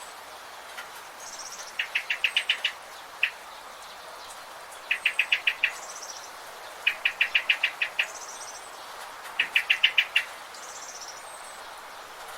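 Birds calling: one bird gives four quick series of six to eight sharp chirps, each series under a second, with a single chirp between the first two. A fainter, higher call repeats every few seconds over a steady background hiss.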